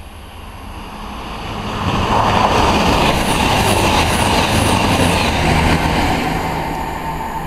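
Virgin express passenger train passing through the station at speed. Its rushing roar builds over the first two seconds and then stays loud, with a short run of rhythmic high-pitched clicks a few seconds in.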